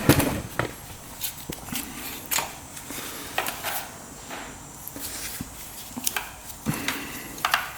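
Irregular clicks, taps and clinks of small metal parts and tools being handled on a workbench, with a louder knock at the very start, as a motorcycle carburetor is worked on.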